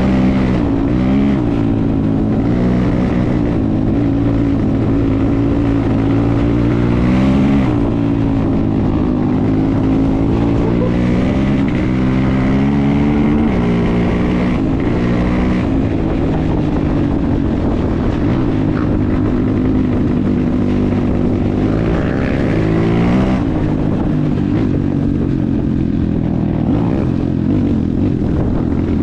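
250 cc single-cylinder enduro motorcycle engine running under way, its revs rising and falling over and over as the throttle is opened and closed.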